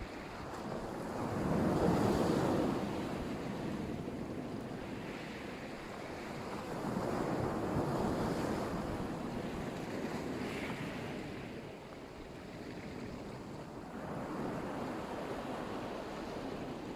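Sea surf: waves washing onto the shore in three swells, about five to six seconds apart, the first the loudest.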